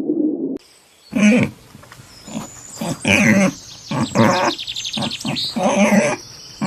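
An animal calling about four times, each call short and loud, a second or two apart, with birds chirping quickly between the calls.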